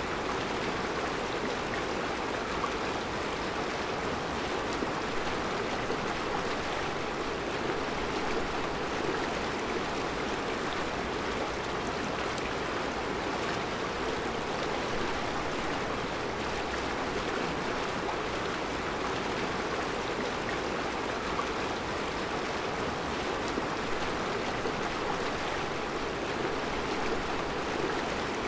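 Mountain river flowing over round rocks in a rocky bed: a steady rushing of water with no breaks.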